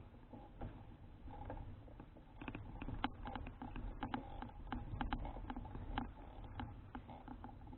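Folding bicycle being ridden: a steady low rumble of wind and road, with irregular rattling clicks from the bike that come thicker from about two seconds in.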